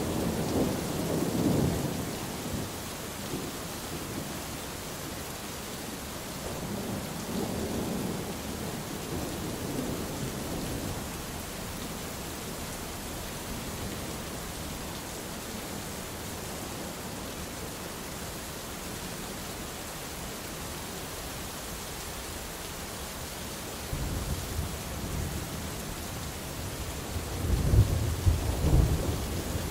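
Thunderstorm: steady rain hissing throughout, with rolling thunder. A rumble dies away in the first couple of seconds, a softer one swells a few seconds later, and a louder, crackling rumble builds near the end.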